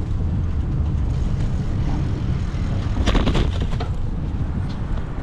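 Wind buffeting the microphone of a moving bicycle, a steady low rumble, with a short run of sharp rattling clicks about three seconds in.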